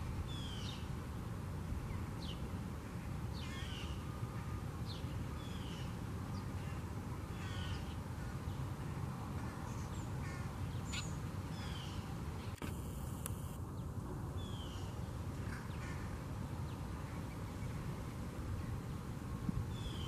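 Birds chirping over and over, short high calls falling in pitch about once a second, over a steady low background hum.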